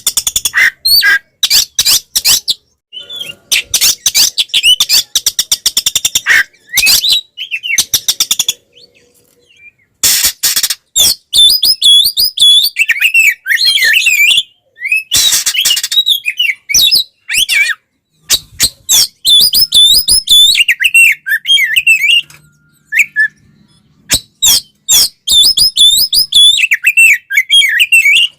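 Oriental magpie-robin (kacer) singing a loud, fast, varied song: rattling harsh notes run together with warbled whistles, in long phrases broken by a few short pauses. This is the aggressive, full-voiced 'fighting' song of a bird in top form.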